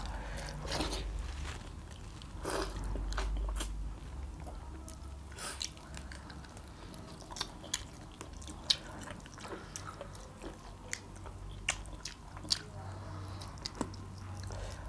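A person chewing and biting roast quail meat with rice, close to the microphone, with irregular short crunches and clicks.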